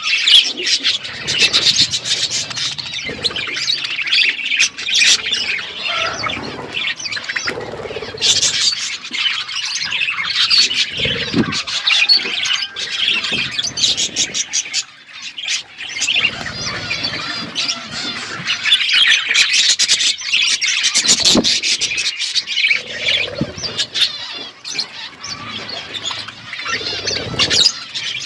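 A flock of budgerigars chattering and chirping continuously, many short overlapping chirps and squawks.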